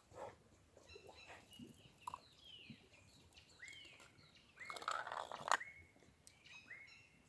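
Birds calling: a series of short whistled calls that sweep down in pitch, with a louder, harsher stretch about two-thirds of the way through.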